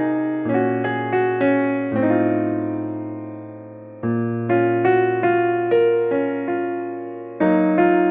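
Background piano music: slow notes struck one after another over held bass notes, each fading away before the next group begins.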